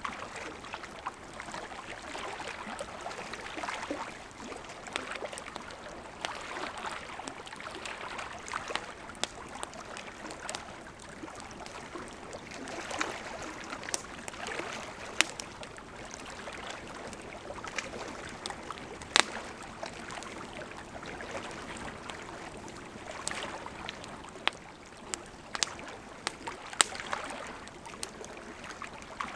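Wood campfire burning: a steady soft hiss of flames with frequent irregular crackles and pops of burning wood, two sharper pops standing out around the middle.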